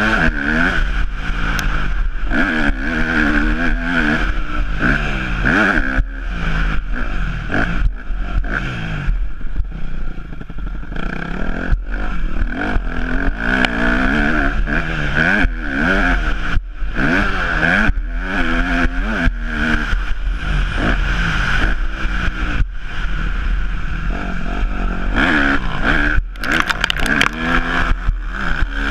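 Yamaha YZ250F's four-stroke single-cylinder engine revving hard and easing off over and over as the motocross bike is ridden, its pitch climbing and falling every second or two with sharp breaks between, over a steady rushing noise.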